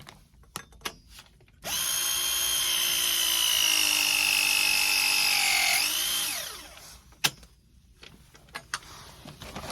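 Milwaukee M12 short-throw ProPress tool pressing a copper fitting: its electric motor runs with a steady whine for about four seconds, sags a little in pitch as the jaws close on the fitting, then winds down. A single sharp click follows.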